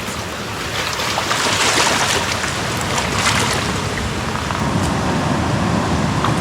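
Sea waves washing in, a steady rush of surf that swells louder about one and a half seconds in and again about three seconds in.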